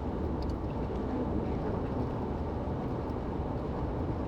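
Steady road and engine noise from a car being driven, an even low rumble that does not change.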